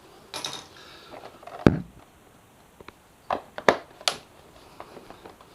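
Plastic motorcycle fairing panel knocking and clicking as it is worked onto its mounting tabs: one sharp knock about a second and a half in, then three lighter clicks a little later.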